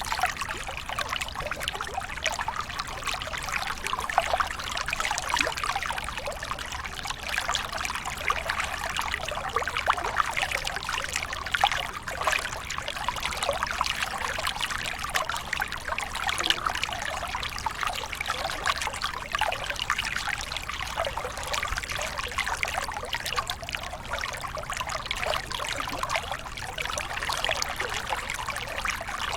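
Water pouring and splashing steadily over a small waterfall, a continuous dense rush flecked with fine trickling splashes.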